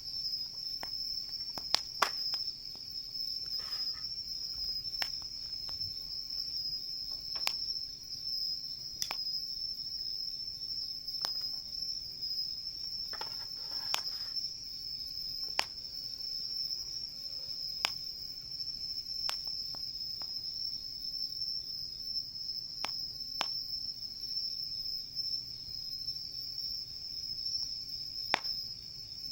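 Insects chirring in a steady high-pitched drone, with a wood campfire crackling in sharp, irregular pops over it.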